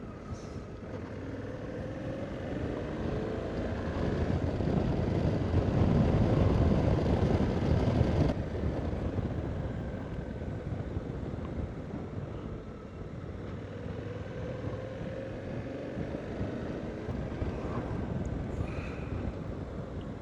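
Motorcycle engine running on the move, with wind and road noise on the microphone. The noise swells over the first few seconds and drops suddenly about eight seconds in.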